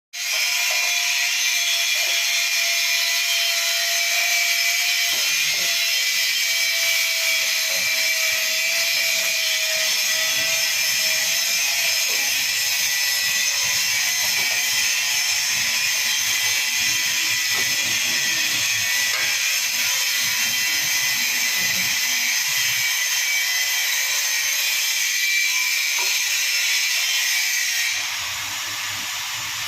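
A power tool running steadily with a high-pitched whine, easing off a little near the end.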